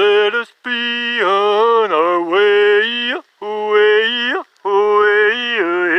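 A man chanting wordless vocables in long held notes, in four phrases with short breaths between them, several ending with a slide in pitch.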